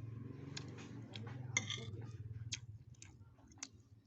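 Eating bakso with rice: a spoon clicking and knocking against the bowl and chewing, as a string of short sharp clicks. A steady low hum underneath fades out about three seconds in.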